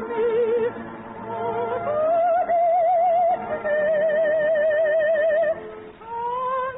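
Orchestral music: a melody of long held notes with strong vibrato, climbing higher about two seconds in and dropping away near the end.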